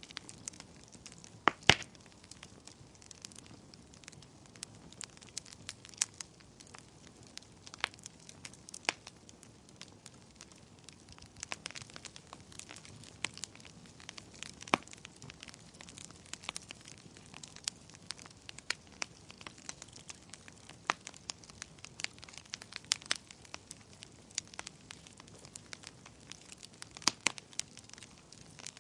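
Wood fire burning in a fireplace, crackling with irregular sharp pops and snaps over a low, steady hiss; the loudest pops come about one and a half seconds in.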